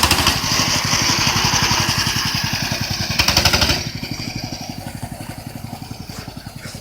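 Coleman CT200U mini bike's small single-cylinder four-stroke engine running as the bike is ridden, its firing pulses loud at first, then dropping off sharply about four seconds in and going on quieter as it moves away. Its carburetor is gummed up from sitting, which the owner says keeps it from running quite right.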